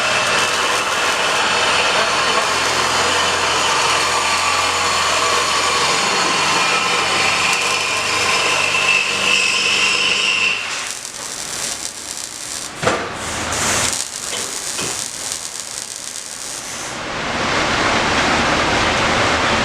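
Metalwork on a car's exhaust system: a loud, steady hissing of a power tool or welder with a high whine, which breaks off about ten seconds in. A couple of sharp metal knocks follow, then the hissing tool noise starts again near the end.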